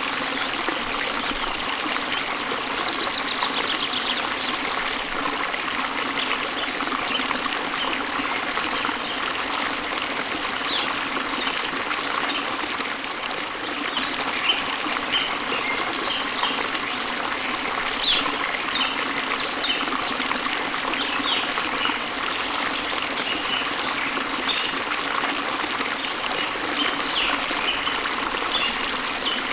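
Steady rush of falling water from a waterfall, with small songbirds chirping over it: a short trill early on, and many brief high chirps through the second half.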